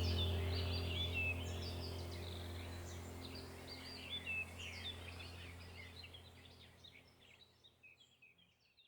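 Many small birds chirping in quick, short calls over a steady low hum, the whole sound fading out gradually toward the end.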